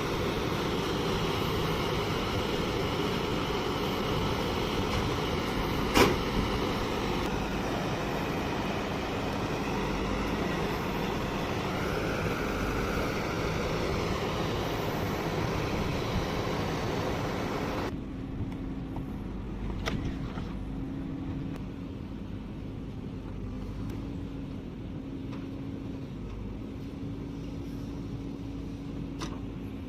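Heavy diesel engines of earthmoving machinery running, with a single sharp knock about six seconds in. Partway through, the sound drops suddenly to a quieter, steadier engine hum with a low held tone.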